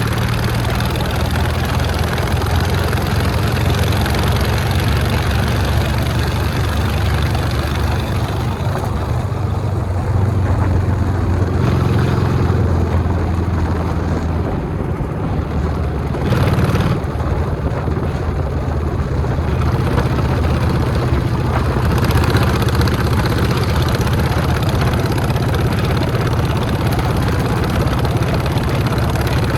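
Motorcycle engine running while riding, under steady wind noise; the engine note shifts up and down a few times.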